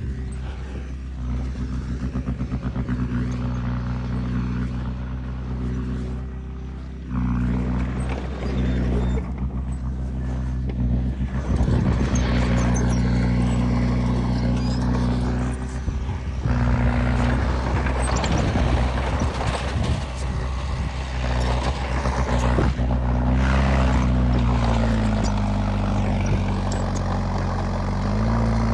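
Heavy diesel machinery engine running, its revs and load changing several times, with its pitch dipping and rising near the end. Metallic clanking and scraping runs over the engine sound.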